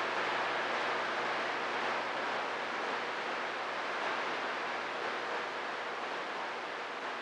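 Steady static hiss from a CB radio receiver with no station coming through, easing slightly in level.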